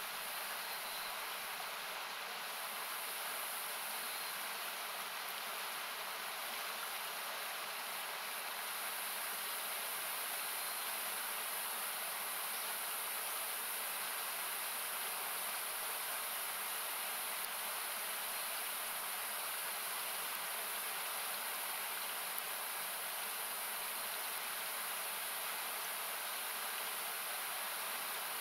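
Steady rushing of a nearby river, thinned by equalisation that has cut its low end, heard as an even hiss. A single faint pop from the campfire comes near the end.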